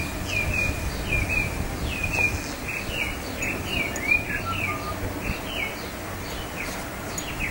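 A garden songbird chirping over and over in short, downward-slurred notes, about two a second, with a short falling run of notes about four seconds in. A low background rumble runs underneath.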